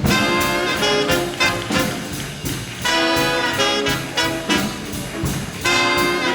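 Swing big band playing an instrumental intro, the brass section sounding held chords broken by short accented hits.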